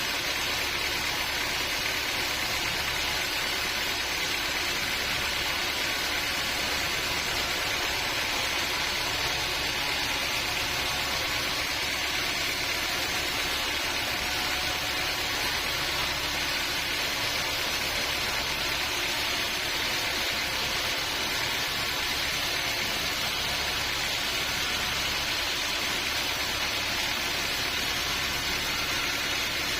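Band sawmill running steadily, with a continuous even hiss and hum that does not change.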